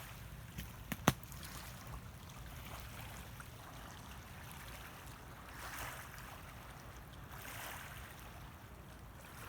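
Faint outdoor water-and-wind ambience, a soft washing hiss that swells twice in the second half. A single sharp click comes about a second in.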